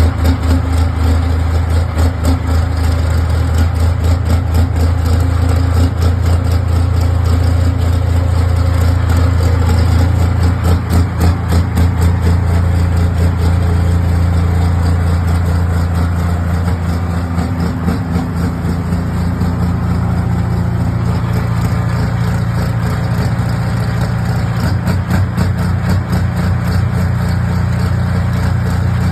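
Heavy engine running loud and steady at low speed, with a fast, even pulsing.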